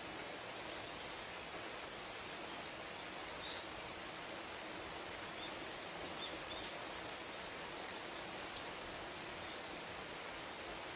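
Steady rain falling, an even hiss throughout, with a few short high chirps of birds in the middle and an odd sharp drop tick.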